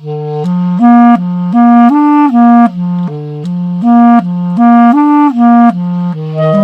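Clarinets playing a repeating melody of short, stepped notes that starts suddenly; near the end a low held note sounds under the moving line.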